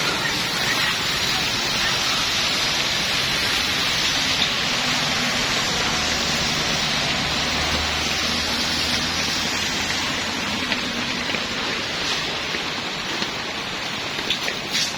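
Steady heavy rain falling, an even hiss of rain on surfaces. A low hum comes in for a few seconds in the middle, and a few sharp drips tick near the end.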